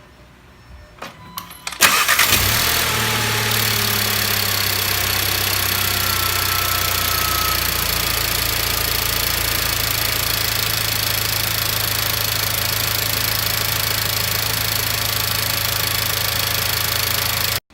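A VW Mk7 Golf's turbocharged four-cylinder TSI engine starts with a short crank about two seconds in, flares briefly, then settles into a steady idle. The sound cuts off abruptly near the end.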